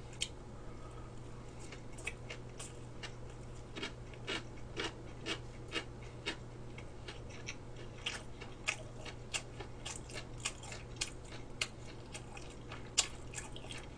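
Close-miked chewing of a large mouthful of gimbap with a fried filling: irregular crunchy clicks, about two a second, over a faint low hum.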